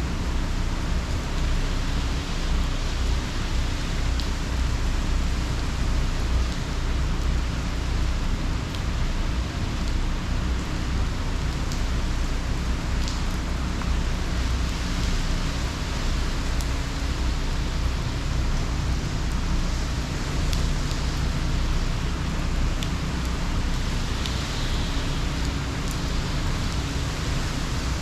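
Steady heavy hurricane rain as an even hiss, with a constant low rumble underneath and a few faint ticks of drops.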